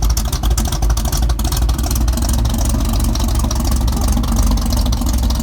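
Loud engine running steadily with a rapid, dense rattle. It cuts in abruptly at the start.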